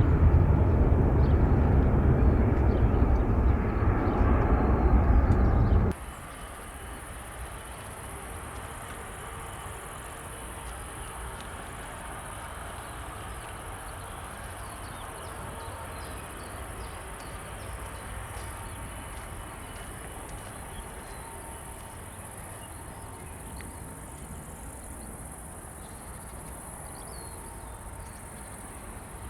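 Loud, low jet airliner engine rumble that cuts off abruptly about six seconds in. What follows is a steady high chirring of insects over a faint low rumble.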